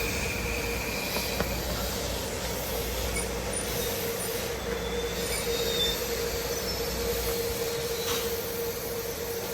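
Train running along the track with a steady wheel squeal over the rolling noise. A higher whine stops about a second and a half in, and the low rumble drops away near the end.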